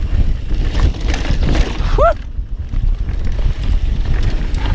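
Wind buffeting the helmet camera's microphone over the steady rumble of a mountain bike rolling on the trail, with a brief rising squeal about two seconds in.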